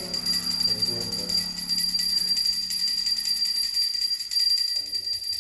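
Brass puja hand bell rung continuously and rapidly, a steady high ringing with a fast shimmer, as is done during the aarti of an Ayudha Pooja.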